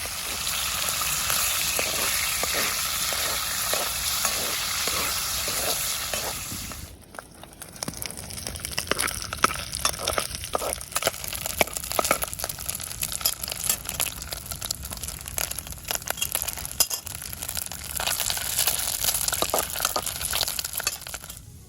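Bacon sizzling in fat in a camp pot as it renders down into cracklings. A loud, steady hiss drops suddenly about seven seconds in, then a quieter sizzle goes on with many short clicks and scrapes of a utensil stirring against the pot.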